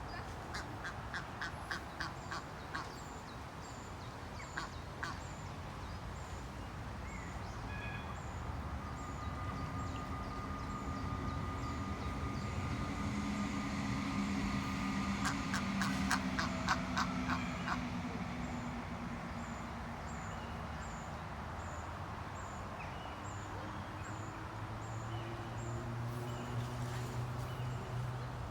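Ducks quacking, with a regular series of short high peeps like ducklings calling, over a low steady hum.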